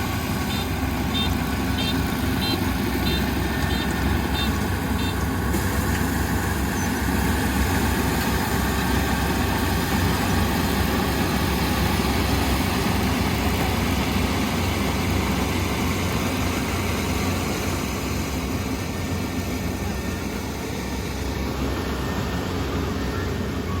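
Kubota ER470 combine harvester's diesel engine running steadily under harvesting load. Short high beeps sound about twice a second during the first five seconds.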